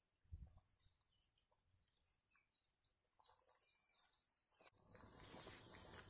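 Faint songbird singing: short high chirps repeated, then a quick run of higher notes. Near the end a rushing noise sets in suddenly and swells.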